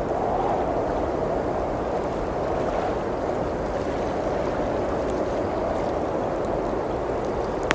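Blizzard wind making a steady, even rush, with a few faint crackles from a wood fire and one sharp pop near the end.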